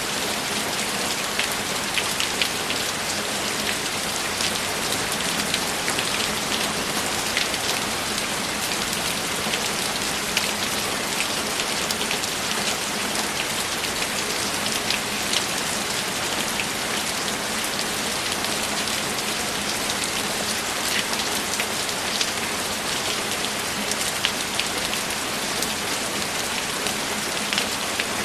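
Steady rainfall: an even hiss of rain with many sharp individual drops pattering on a surface.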